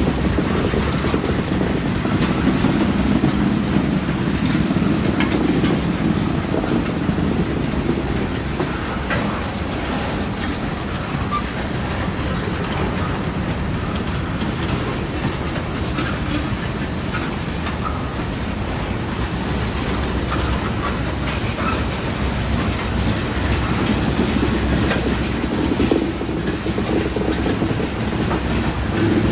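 Freight train cars (boxcars, then tank cars) rolling past close by: a steady rumble of wheels on rail with repeated clicking over the rail joints.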